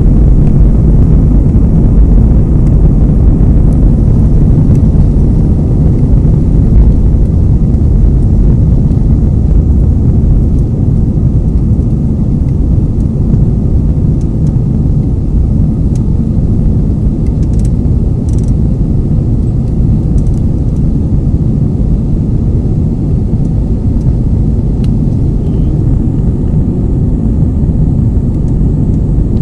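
Aircraft taking off: a loud, steady low rumble of engines and airflow that eases off slightly over the stretch.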